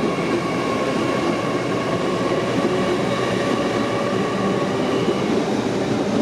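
TransPennine Express Class 802 bi-mode train pulling out of a station platform, running steadily with a faint steady whine over the rumble.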